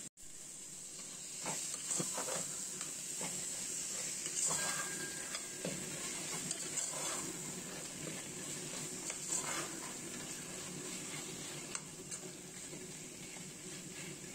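Chickpea and onion-tomato masala sizzling in a stainless steel pot while a metal spoon stirs it, scraping and clinking against the pot from time to time.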